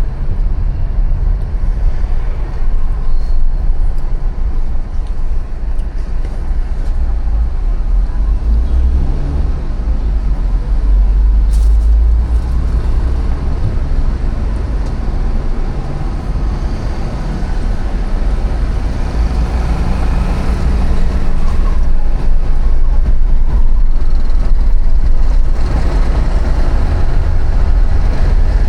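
City road traffic heard from a bicycle riding along the street: a steady mix of passing vehicles over a constant low rumble. It grows somewhat louder in the last few seconds.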